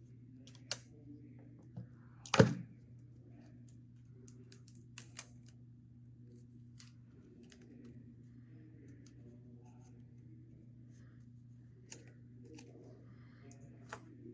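Hands taping a paper cut-out to a wooden popsicle stick: scattered light clicks and taps of tape and paper being handled, with one louder sharp snap a little over two seconds in, over a low steady hum.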